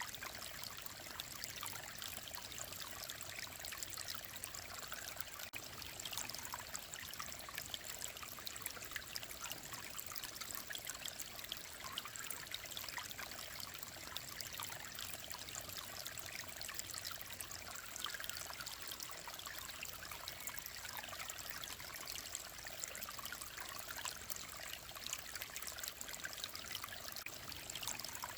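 Clear mountain stream running steadily, a continuous babbling trickle with fine splashes.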